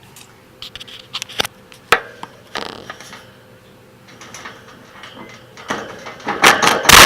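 A series of sharp mechanical clicks and knocks, then louder scraping and clattering from about six seconds in, ending on a loud knock.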